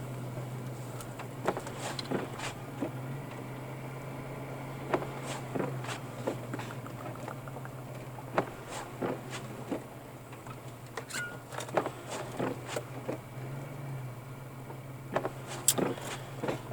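Steady low drone of a car's engine and tyres, heard inside the cabin while driving, with irregular light ticks and taps through it.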